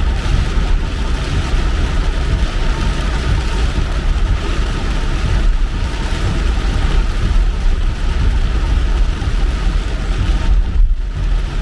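Car driving in the rain: steady road, tyre and engine noise with a heavy low rumble, briefly thinning near the end.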